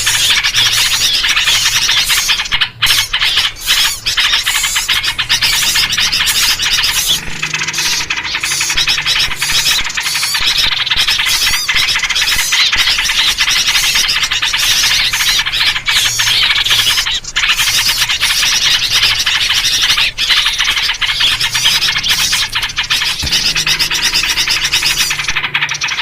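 A dense, continuous chorus of agitated small-bird calls, led by yellow-vented bulbul (trucukan) chattering: a 'noisy birds' lure recording of the kind used to draw small birds in.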